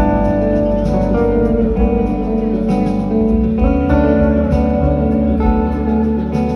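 Live band playing an instrumental passage led by strummed guitar, with bass and drums keeping a steady beat.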